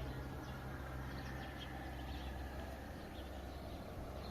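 Small birds chirping, short high chirps scattered throughout, over a steady low rumble.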